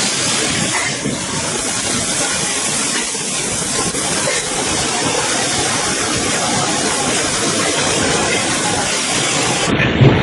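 Steady, loud hissing noise. Near the end it cuts off suddenly to a duller roar, with one thump.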